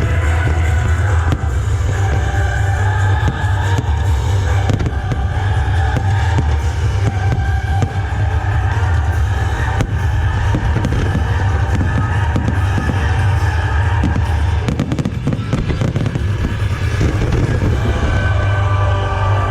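A fireworks display with aerial shells bursting in rapid succession, heard over music played for the show.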